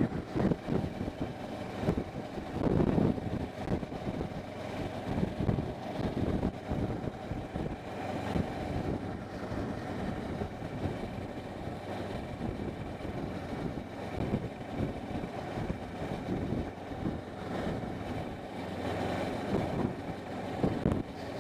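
Motorcycle riding along: engine running steadily under a rushing, fluctuating wind noise.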